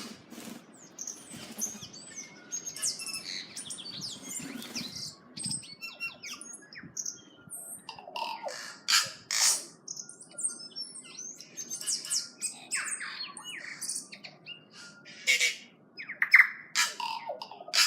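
Wild forest birds calling: a busy, irregular mix of squawks, sharp clicks, chirps and short whistled notes.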